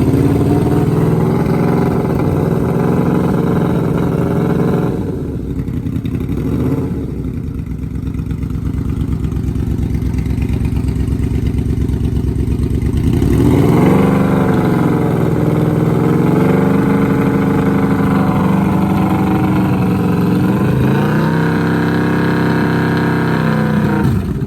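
2006 Yamaha Royal Star Tour Deluxe's V4 engine through an aftermarket LA Choppers dual exhaust, running freshly cold-started and being revved. It holds raised revs, drops back toward idle about five seconds in, is revved up again around thirteen seconds, dips, then rises once more before falling off near the end.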